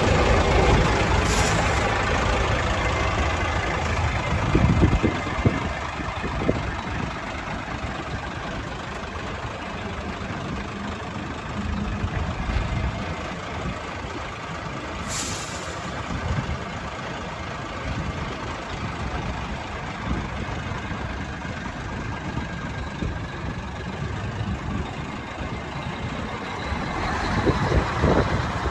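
A 1974 Mack water truck's six-cylinder diesel engine idling steadily. Two short hisses of air come from the truck's air system, one about a second in and one about halfway through. The engine grows louder again near the end.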